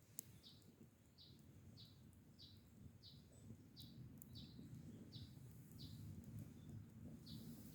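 A bird repeating one short, high call over and over, about one and a half times a second, faint over a low outdoor rumble.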